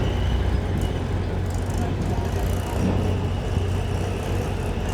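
Diesel engine of a JCB 3DX backhoe loader running steadily, with a strong low hum and a thin high tone held throughout.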